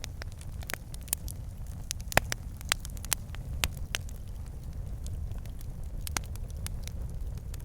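Wood fire in a fireplace burning, with a low steady rumble of flame and irregular sharp crackles and pops from the logs, one louder pop about two seconds in.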